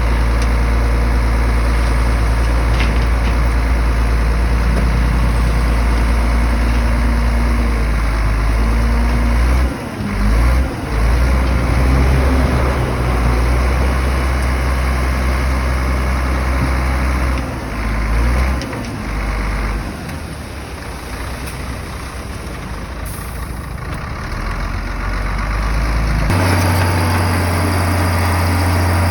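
Heavy bulldozer's diesel engine running, its low note dipping and shifting a few times, quieter for a stretch past the middle, then changing abruptly to a new steady note near the end.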